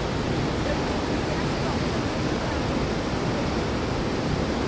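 Steady roar of rushing water, like a waterfall or fast river, an even noise without separate events.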